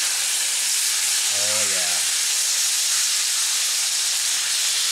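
Chicken breasts sizzling in a frying pan with a little bacon fat and oil, a steady high hiss, while they are turned over with tongs. A brief voiced sound comes about a second and a half in.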